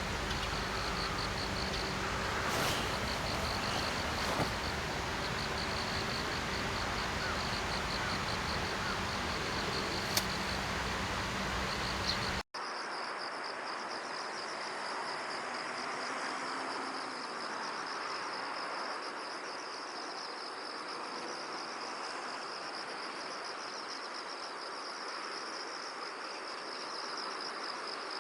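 Insects trilling: a high, rapidly pulsing chirr that comes in stretches, over a low steady hum with a couple of sharp clicks. About twelve seconds in the sound cuts abruptly to another, unbroken high insect trill.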